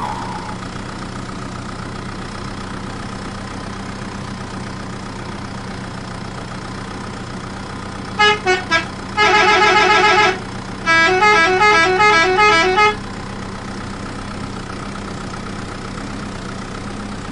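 Electronic toy-vehicle horn over a steady low hum. About eight seconds in come a few short beeps, then a held warbling tone, then some two seconds of quick alternating two-note beeps.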